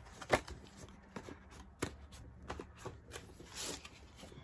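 A small merch box being handled and opened: a few sharp knocks and clicks with some rustling, the loudest knock about a third of a second in.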